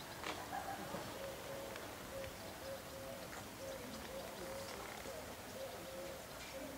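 Faint birds: a low cooing note repeated in a steady run of short dashes from about a second and a half in, with scattered small-bird chirps above it.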